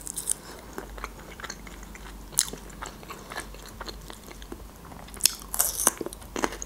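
Close-miked chewing with scattered small wet mouth clicks, then a cluster of louder crisp crunches about five seconds in as she bites into a slice of raw red bell pepper.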